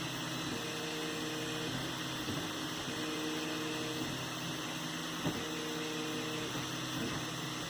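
3D printer running: its stepper motors whine in steady tones that switch on and off and change every second or so as the print head moves, over a steady hiss, with a single tick about five seconds in.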